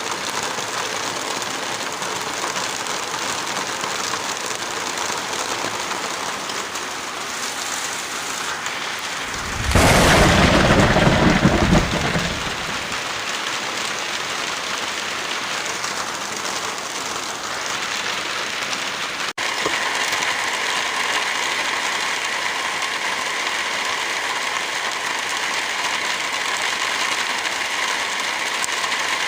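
Heavy rain falling steadily, with a loud rumble of thunder lasting about two seconds, about ten seconds in. About two-thirds of the way through, the rain drops out for an instant and comes back with a changed, slightly louder texture.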